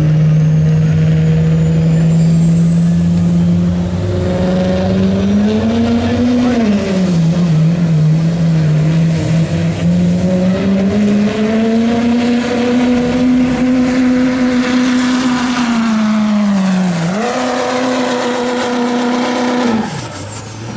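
Diesel pickup engine running hard under load while pulling a sled, its note rising and sagging, with a thin high whistle climbing over the first few seconds and holding. The engine note dips sharply twice, about 6 s in and about 17 s in, then falls away near the end as the engine comes off the throttle.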